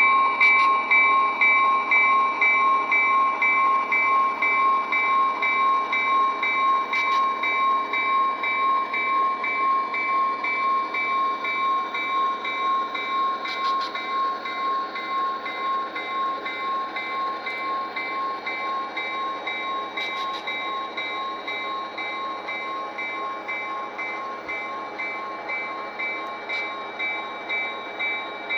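Synthesized diesel locomotive sound from a SoundTraxx DCC sound decoder, played through the small onboard speaker of an HO-scale model locomotive. A steady engine tone pulses evenly at about two and a half beats a second and fades gradually as the model rolls away.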